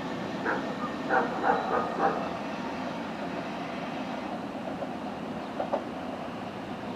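A train running on the line, a steady noise with a few sharp clacks in the first two seconds.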